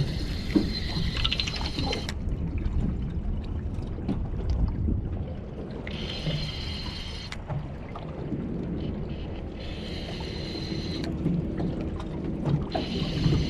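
Seawater washing and sloshing around the breakwater rocks, with wind rumbling on the microphone. Four short bursts of a higher whirring sound come and go over it.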